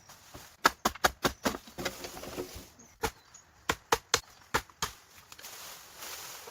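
Repeated sharp chopping knocks of a blade striking wood, in quick irregular runs with a short pause in the middle.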